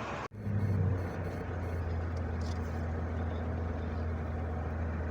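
Steady low engine hum, following an abrupt cut about a third of a second in; it swells briefly just after the cut, then holds even.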